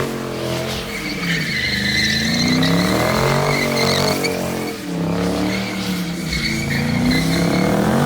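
A car's engine revving up and down under hard throttle while its tyres squeal continuously, as in a burnout or donuts; the engine pitch rises and falls several times.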